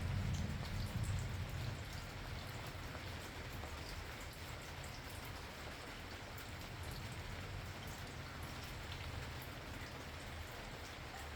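Steady rain falling, with individual drops ticking on surfaces. A low rumble of distant thunder dies away in the first couple of seconds.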